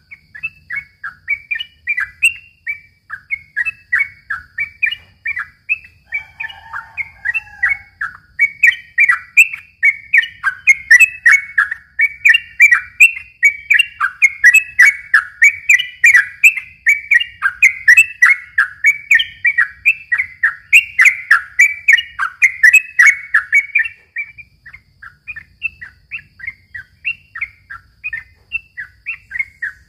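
Yellow-vented bulbul (trucukan) singing vigorously in a long, unbroken run of rapid chirping notes. The song swells louder through the middle and softens near the end.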